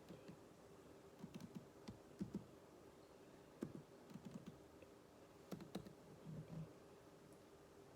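Computer keyboard keys being typed in short, irregular bursts of faint clicks, as during a typing drill.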